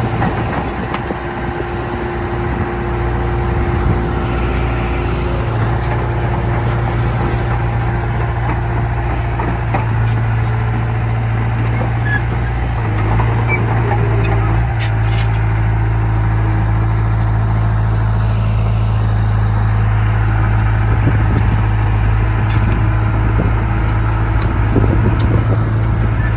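Heavy diesel engine of earthmoving machinery running steadily, a deep low drone that grows louder about three seconds in and then holds.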